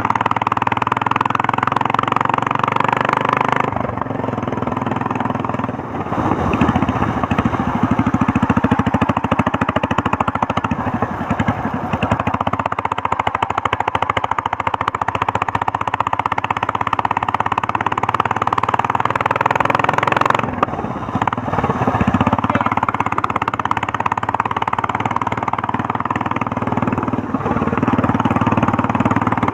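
Royal Enfield Meteor 350's single-cylinder engine and exhaust under way, with a steady thumping beat. The throttle eases off about 4 s in and opens again about 6 s in, with another short dip about 20 s in.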